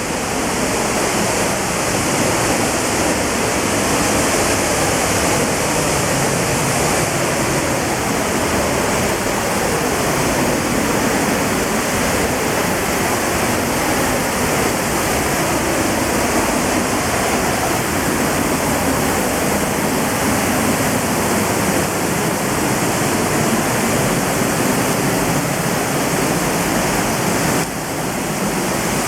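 Middle North Falls, a large waterfall, pouring down with a loud, steady rush of falling water that grows a little louder in the first few seconds.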